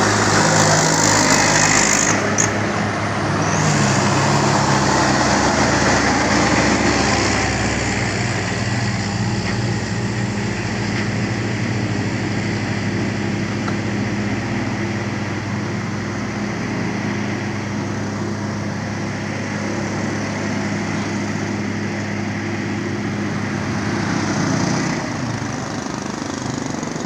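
An engine running steadily, louder for the first several seconds and then settling to a lower, even hum.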